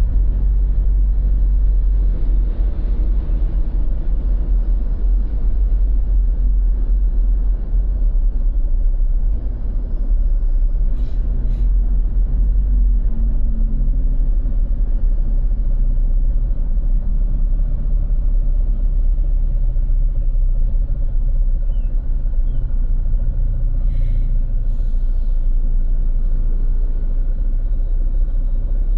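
Steady low rumble of road traffic, with engine hum from passing vehicles rising and falling.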